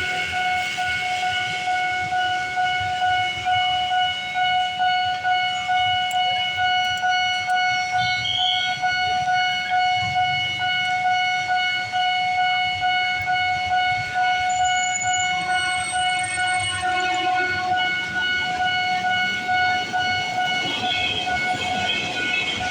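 Railroad level-crossing warning alarm sounding continuously, a steady electronic tone pulsing in a regular rhythm, with the rumble of a passing train beneath it.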